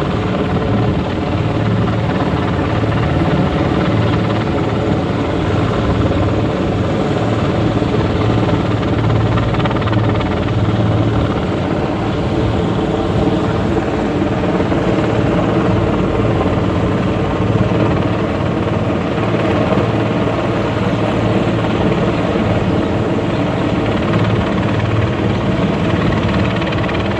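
Helicopter running steadily: a loud, continuous drone of engine and rotor with a strong low hum.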